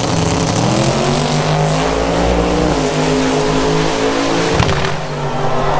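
Vehicle engines revving hard and accelerating in a race, their pitch climbing over the first few seconds.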